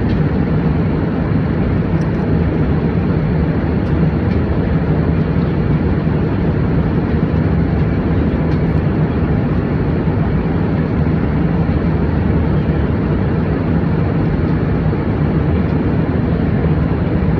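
Steady airliner cabin noise in flight: a constant low drone of engines and rushing air, with a few faint small ticks.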